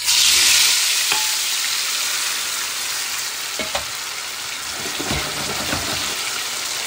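Long-cut raw potato pieces dropped into hot oil in a frying pan: a loud burst of sizzling as they go in, settling within a second into steady frying as they are par-fried to a golden colour.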